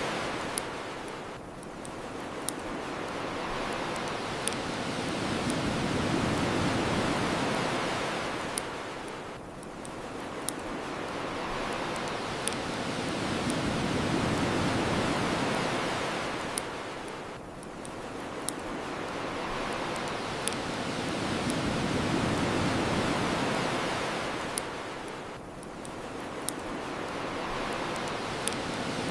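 Ocean waves washing onto the shore, swelling and falling back about every eight seconds, with the sharp pops of a crackling bonfire heard over them every few seconds.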